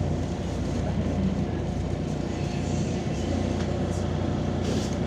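MAZ-203 city bus in motion, heard from inside: a steady drone of engine and road noise.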